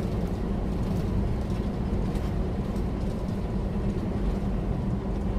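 Steady drone of a loaded semi-truck cruising at highway speed, heard from inside the cab: engine and tyre-on-road noise with a constant low hum.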